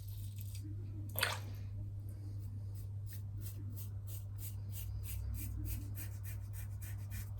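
Double-edge safety razor scraping through lathered stubble in quick short strokes, about four a second, after a single sharp knock or splash about a second in. A steady low hum runs underneath.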